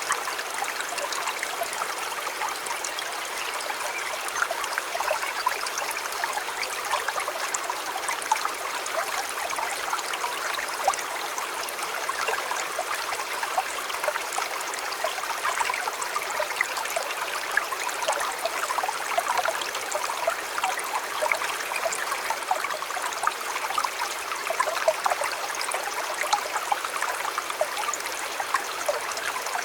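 A shallow river flowing steadily over stones, with lots of small splashing and bubbling.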